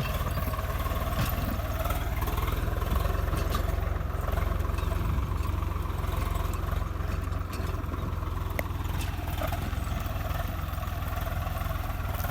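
Swaraj 855 tractor's three-cylinder diesel engine running steadily.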